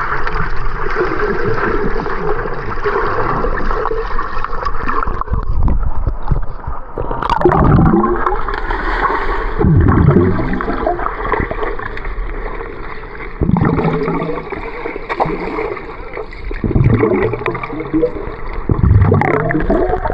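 Water gurgling and splashing around swimmers in a waterfall pool, with several loud surging gurgles in the second half.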